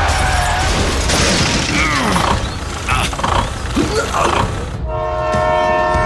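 A mix of clatter and gliding squeaks, then, nearly five seconds in, a multi-tone horn starts sounding a steady chord.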